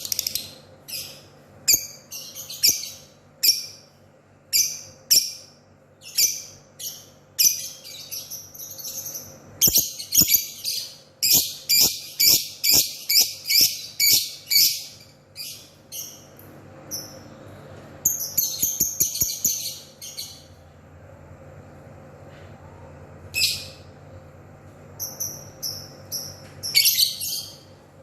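Lovebird chattering: quick runs of short, shrill, high-pitched chirps with brief pauses between them, densest from about ten to fifteen seconds in.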